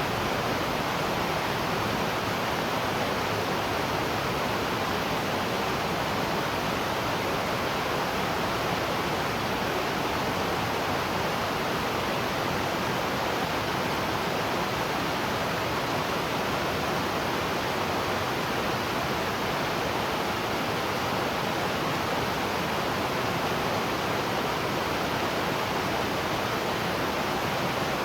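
Waterfall: falling water making a steady, unbroken rushing noise that does not change.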